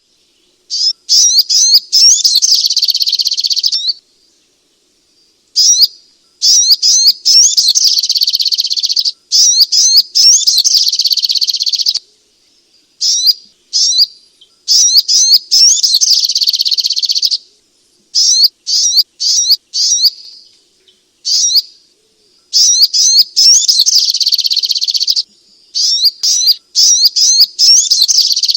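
Sogok ontong (spiderhunter) singing in repeated bouts of rapid, high chattering notes, each bout a second to a few seconds long, separated by short pauses.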